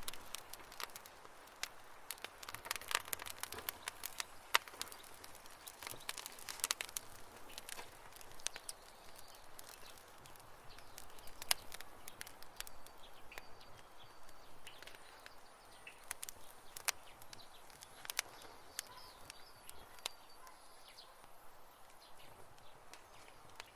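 Campfire burning, with irregular sharp crackles and pops from the burning wood over a soft hiss; the crackles come thickest in the first few seconds. Faint high chirps sound in the background through the second half.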